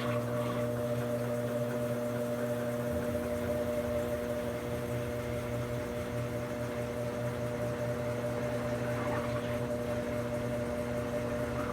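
Brastemp BWK17 17 kg washing machine running with a steady, even hum of fixed pitch from its motor or pump.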